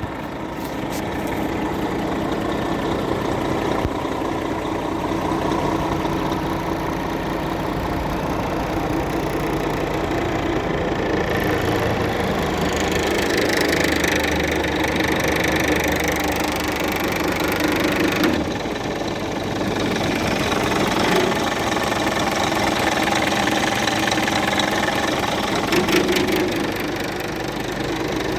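Scania P360 truck's diesel engine running at idle. About halfway through it becomes louder and brighter for several seconds, then falls back abruptly.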